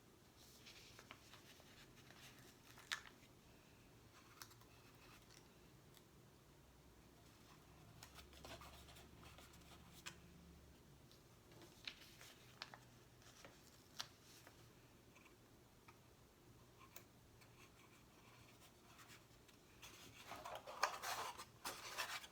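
Quiet close-up handling of stickers and a box: scattered light taps, clicks and scratchy rubbing. Near the end comes a louder run of crinkling.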